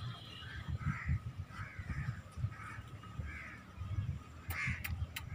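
A bird calling over and over, short calls about two a second, over irregular low knocks and rustling, with a couple of sharp clicks near the end.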